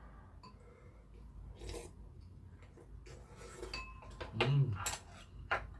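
Close-up eating sounds: a mouthful of rice and crunchy chonggak (ponytail radish) kimchi being chewed, with a few light clicks of spoon and chopsticks against ceramic bowls. A short hummed 'mm' comes about four and a half seconds in.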